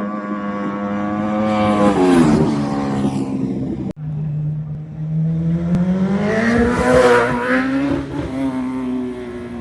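Racing motorcycles passing at speed: an engine note swells as it approaches and drops in pitch as it goes by, twice, with an abrupt cut between the two passes about four seconds in.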